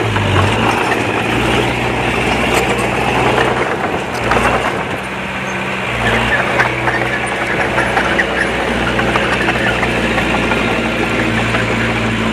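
Diesel engine of heavy earthmoving machinery running under varying load, with a steady low hum that shifts in strength a few times, and scattered clanks and rattles.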